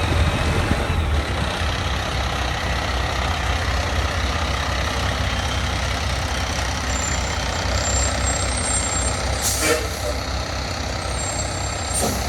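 Fire truck's diesel engine running with a steady low drone, with two short air hisses near the end, like air brakes venting.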